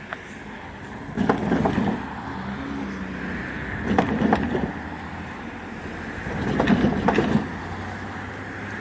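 Slow-moving freight train cars rolling past, their wheels clacking over rail joints in clusters about every two and a half seconds, one cluster as each pair of car trucks crosses.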